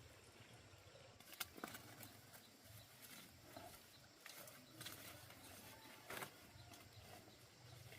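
Near silence with a few faint, scattered clicks and light knocks.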